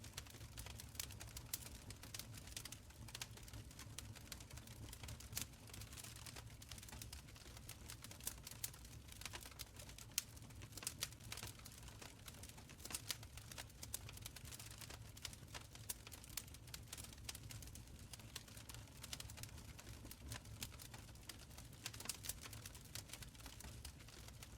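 Wood fire crackling in an open stone fireplace: quiet, irregular pops and snaps, several a second, over a soft low rumble of the flames.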